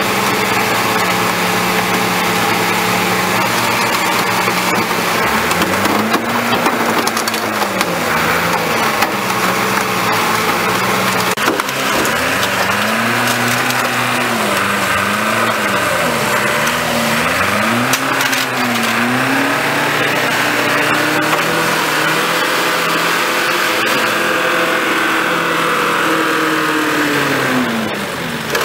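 A car crusher's engine labouring, its pitch dipping and recovering again and again, over cracking and crunching as a vehicle is crushed.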